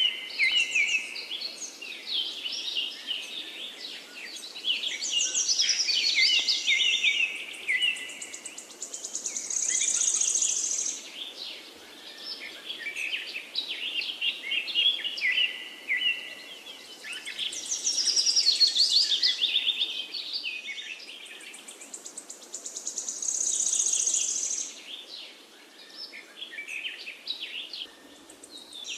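Birds chirping and trilling in many overlapping high-pitched phrases, with a few longer buzzy trills along the way.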